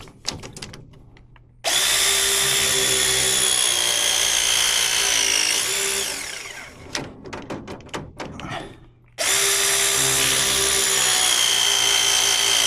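Battery-powered pipe press tool crimping a press fitting, running two press cycles of about four seconds each. The motor whine sags slightly near the end of each cycle and then changes pitch as it finishes. Light clicks and rattles sit between the two cycles as the jaws are repositioned.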